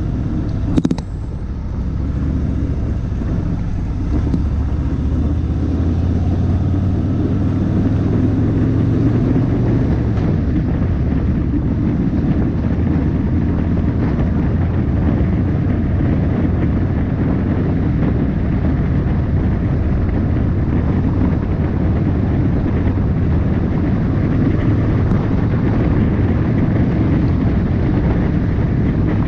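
Harley-Davidson motorcycle running steadily while riding, a low engine drone mixed with wind rushing over the microphone. There is a brief sharp knock about a second in.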